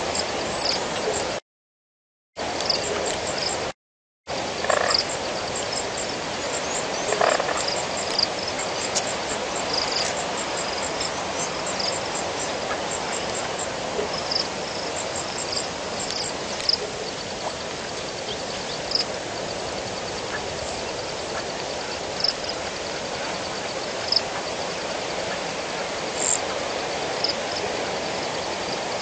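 Steady rain hiss with frogs calling in short, high-pitched notes every second or two. The sound cuts out completely twice in the first few seconds.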